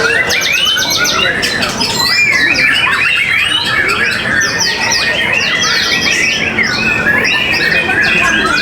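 Many caged songbirds singing over one another at once: a dense, loud, unbroken chatter of rapid chirps, trills and whistles.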